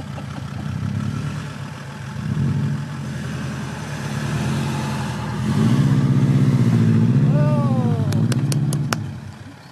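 A car engine revving up about halfway through and held at high revs for a few seconds before dropping away near the end.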